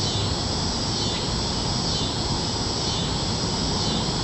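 Cicadas buzzing in a steady, high-pitched drone that holds at the same level throughout.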